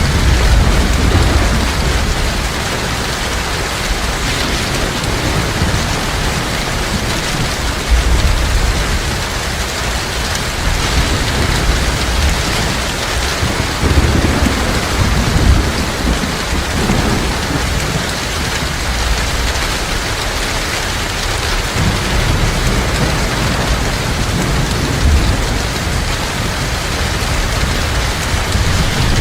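Heavy rain falling steadily, with low thunder rumbling now and then, swelling about eight seconds in and again around the middle.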